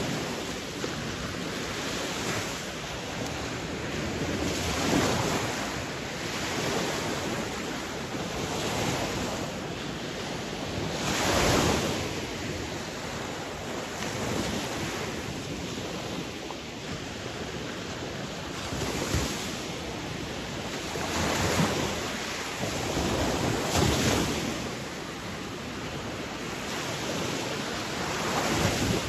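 Ocean waves breaking and washing on a shore, a steady rush of surf that swells louder every few seconds as each wave comes in, with some wind on the microphone.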